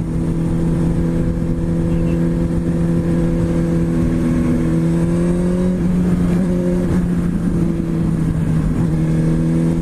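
Motorcycle engine running at a steady speed under wind and road noise, its pitch dipping briefly about six seconds in and again near the end.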